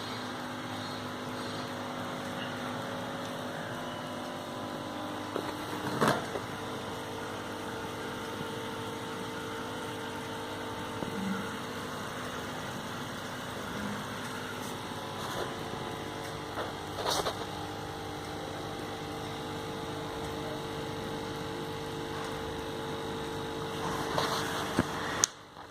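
Steady machine hum with hiss and a few fixed tones, broken by a couple of short knocks, one a few seconds in and one past the middle.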